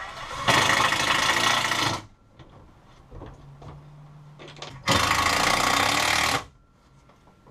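A power tool run in two bursts of about a second and a half each, with a low steady hum between them.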